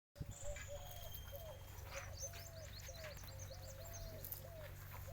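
Birds calling: a string of short, arched low notes repeating about every half second, joined by quick high chirps partway through, over a steady low hum.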